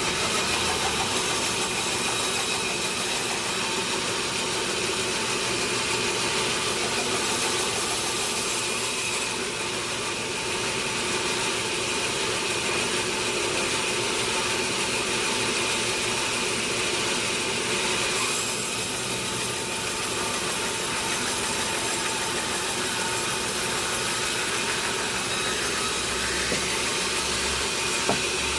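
Sawmill saw and its engine running steadily while teak wood is sawn, a continuous noisy drone with a faint high whine.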